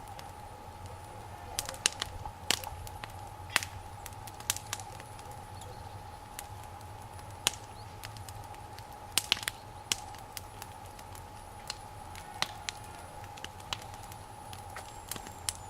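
Wood fire crackling, with irregular sharp pops.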